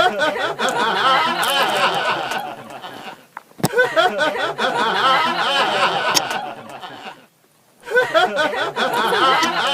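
A person's voice laughing in three bouts of about three seconds each, with short pauses between.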